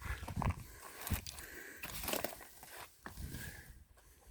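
Footsteps of a person climbing through low brush and blueberry bushes: a few irregular steps and rustles.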